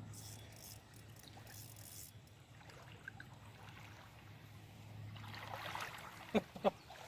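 Faint river water trickling and lapping over a low steady hum, with a few sharp clicks near the end.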